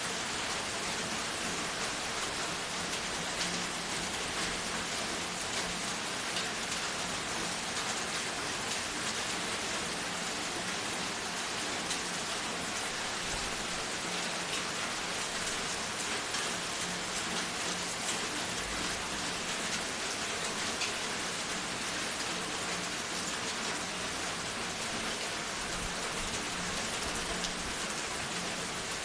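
Steady rain falling, a dense even hiss with fine patter of drops hitting a surface.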